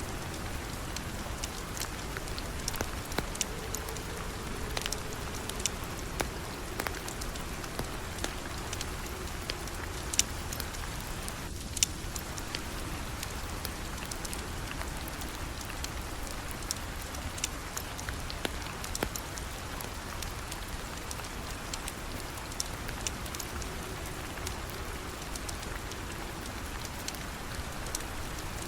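Steady rain falling, with scattered sharp clicks and pops over it.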